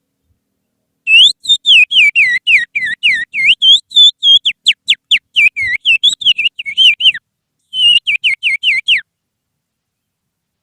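Finger whistling imitating an oriental magpie-robin (kacer) song: a fast run of sharp whistled chirps sweeping up and down in pitch, starting about a second in, then a short break and another quick burst.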